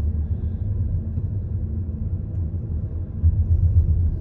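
Steady low rumble of a moving car heard from inside the cabin: road and engine noise, briefly louder a little over three seconds in.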